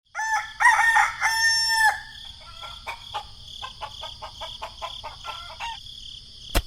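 A rooster crows once, then gives a run of short clucks, over a steady high hiss. A sharp click comes near the end.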